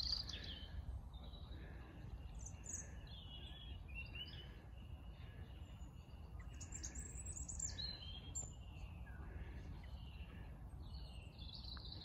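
Songbirds singing: many short chirps and warbling phrases, some higher trills near the middle and end, over a low steady background rumble.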